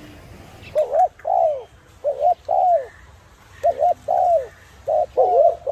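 A dove cooing in a repeated phrase, four times about a second and a half apart. Each phrase is a quick double note followed by a longer note that falls in pitch.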